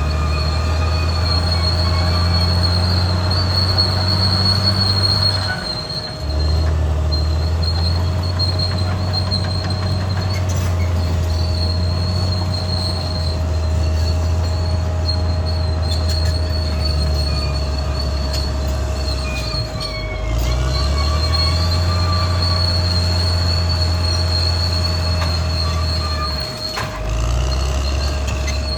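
Caterpillar D6R XL crawler bulldozer working: its diesel engine drones under load and its steel tracks squeal steadily and high over it. The engine dips briefly three times, about a third of the way in, about two-thirds in, and near the end.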